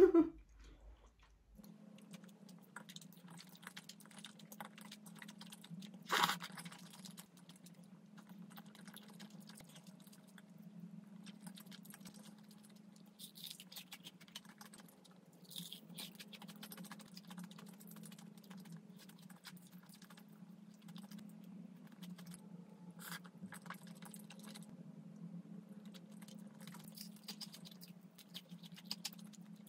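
Close-miked eating: chewing and soft crunching of crispy fried chicken and chewy tteokbokki, with many small clicks and wet mouth sounds, and a louder crack about six seconds in. A steady low hum runs underneath.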